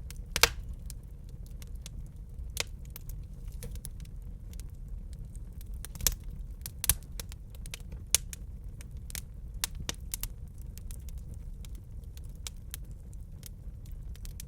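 Wood fire crackling in a fireplace: scattered sharp pops and snaps, a few louder ones about half a second in and around six to eight seconds, over a steady low rumble of the burning.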